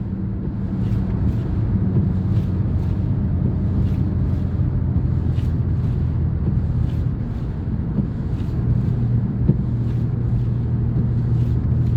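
A car running, heard from inside the cabin: a steady low engine hum over road and tyre noise, with faint scattered light ticks.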